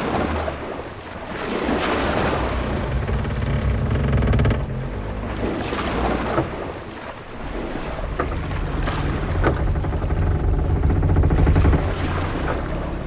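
Sailing-ship-at-sea ambience: waves washing and wind, with a low rumble that swells and falls back twice.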